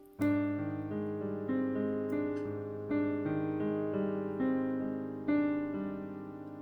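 Background solo piano music, a slow piece of gently struck chords that each ring and fade.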